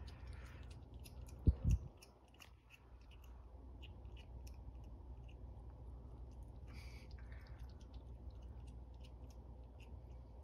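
A cat lapping water from a pet water fountain: quick, irregular small wet clicks over a steady low hum, with two dull thumps about a second and a half in.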